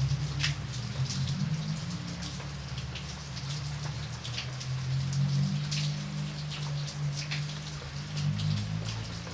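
Steady rain, with many separate drops striking close by, several a second, over a constant low rumble.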